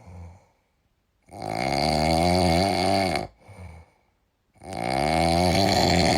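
Two long, loud snores about a second and a half apart, each lasting about two seconds with a wavering, fluttering tone.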